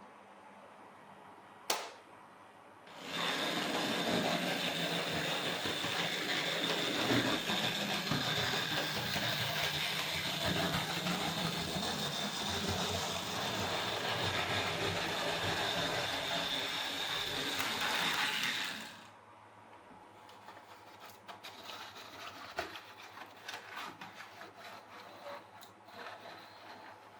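Hornby Dublo GWR 0-6-2 tank model locomotive running on three-rail track: a steady high electric-motor whine over the rattle of its wheels, starting about three seconds in after a single click and stopping abruptly about sixteen seconds later, leaving faint scattered clicks.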